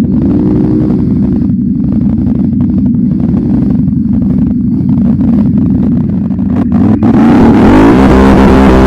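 ATV engine running at low, steady revs, then about seven seconds in it revs up hard and gets much louder, its pitch climbing.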